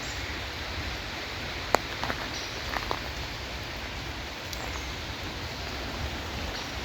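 Steady rain falling, an even hiss, with scattered sharper raindrop ticks; one louder tap a little under two seconds in.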